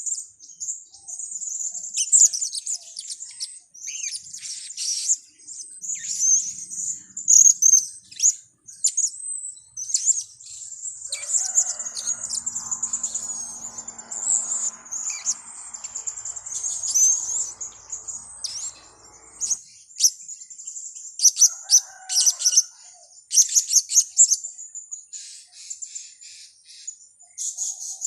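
Blue-crowned hanging parrots (serindit) calling: a busy chatter of thin, very high-pitched chirps and short trills, one after another, with brief gaps. A fainter, lower rushing noise runs beneath the calls from about a third of the way in to about two-thirds.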